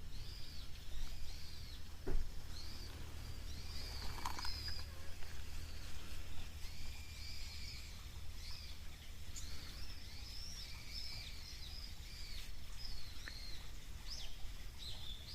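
Small birds chirping: short, arching high calls repeated all through, over a steady low outdoor rumble, with a few sharp clicks.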